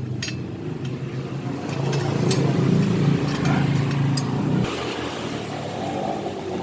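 A motor vehicle engine running steadily, louder in the middle, then cutting off abruptly about four and a half seconds in, with scattered light metallic clicks.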